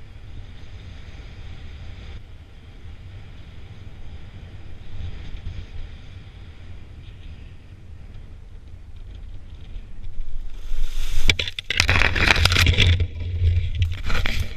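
Wind rushing over the microphone in flight, a steady low rumble with light hiss. About eleven seconds in it turns into loud, rough buffeting and rustling with crackles.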